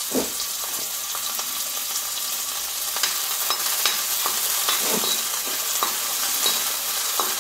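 Chopped shallots and curry leaves sizzling in hot coconut oil, with a steel spoon scraping and clicking against the pan as they are stirred.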